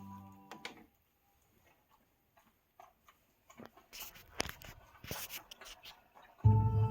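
Music from a pair of JBL L46 loudspeakers fades out about a second in, leaving a near-silent gap with a few soft rubbing and clicking noises. Loud music starts again near the end.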